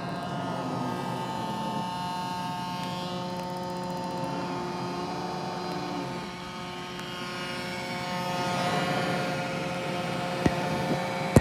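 iRobot Roomba j7+ robot vacuum running as it cleans: a steady motor hum with a whine of several steady tones, dipping briefly after the middle and swelling again. There are a couple of sharp clicks near the end.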